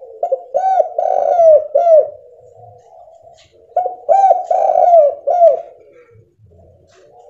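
Spotted dove (tekukur) cooing: two phrases of about five rounded coo notes each, the second phrase starting a little under four seconds in.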